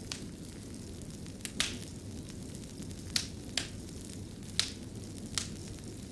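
Wood fire crackling in a stone fireplace: a steady low rumble with about seven sharp pops scattered through it.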